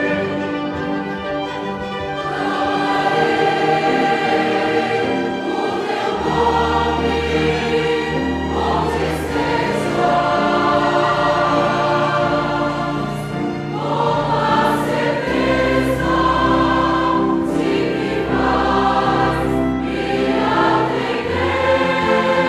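A choir singing a hymn-like piece with instrumental backing, in long sustained chords that change every few seconds over a bass line.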